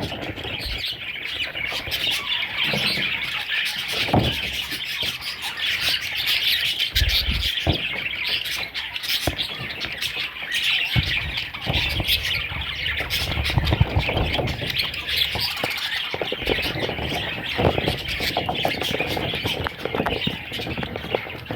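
Baby budgerigars chirping and squawking in a dense, continuous high chatter, with scattered soft knocks underneath.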